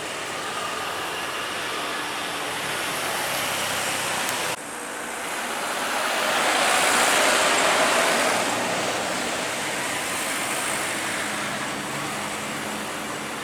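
Jet airliner engine noise, a steady rushing that cuts off abruptly about four and a half seconds in, then swells to a peak and fades as an aircraft passes.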